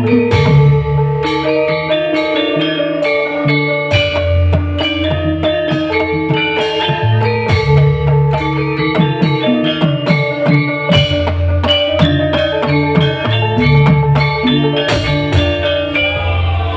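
Live band playing an instrumental passage: a plucked, guitar-led melody over a steady bass line and drum kit.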